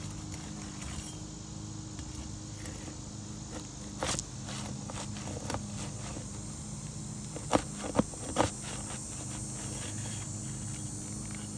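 Handling of and footsteps on an asphalt shingle roof: scuffs and light ticks, with a sharp crack about a third of the way in and three louder sharp snaps close together past the middle, over a steady low hum.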